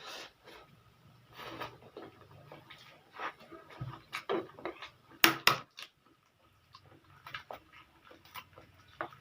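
A person eating noodles close to the microphone: irregular chewing and slurping smacks mixed with small clicks of a utensil on the plate, the loudest pair about five seconds in.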